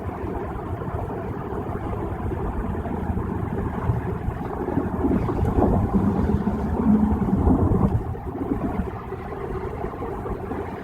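Road and engine noise inside a moving car's cabin at freeway speed: a steady tyre-and-engine rumble that swells louder through the middle and eases off near the end.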